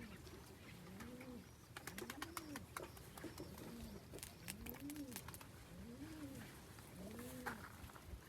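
Domestic pigeons cooing: a series of low coos, each rising and falling in pitch, about one a second, with a few faint clicks in between.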